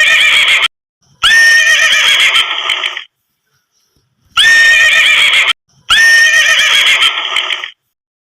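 A horse whinnying: a short whinny, then a longer one, and the same pair repeated about four seconds later, with silence between calls.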